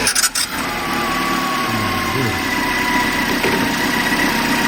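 Peugeot 207's 1.6 petrol engine catching at the end of cranking and settling into a steady idle with a thin whine. It was started by feeding power to the starter directly, bypassing the faulty starter-relay circuit.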